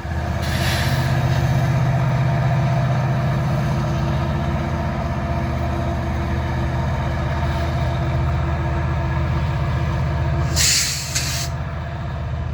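Diesel-electric freight locomotive running with a steady, deep engine drone as the train comes through. A brief hiss comes about half a second in, and a louder burst of hiss near the end.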